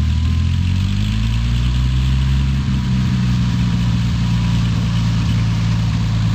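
Cessna 185 Skywagon's flat-six engine and propeller running at low, taxi power after landing, the engine note rising slightly over the first few seconds and then holding steady.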